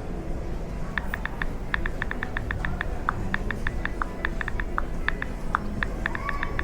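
Steady low background rumble, with rapid, uneven light clicks, several a second, starting about a second in.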